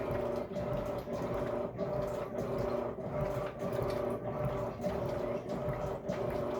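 Electrolux LAC13 13 kg washing machine agitating a wash load: a steady motor hum that breaks off and restarts in an even rhythm about every 0.6 s as the drive reverses, with the churning of the wet load.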